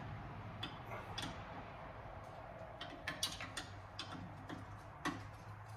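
Faint, irregular light metallic clicks and ticks of a 9/16 in. wrench working a bolt on an old drill press, about a dozen spread over the few seconds, over a low steady hum.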